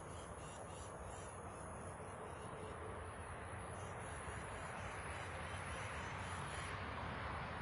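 Insects trilling steadily in a thin high tone that stops near the end, over a steady outdoor hiss that grows slightly louder.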